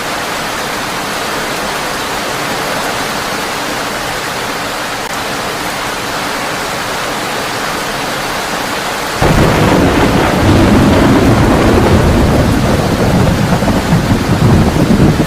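Steady heavy rain, then a loud rumble of thunder breaks in suddenly about nine seconds in and keeps rolling, swelling again near the end.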